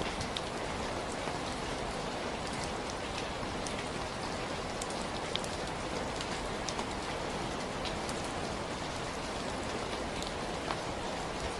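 Steady rainfall: an even hiss of rain with scattered individual drops ticking close by.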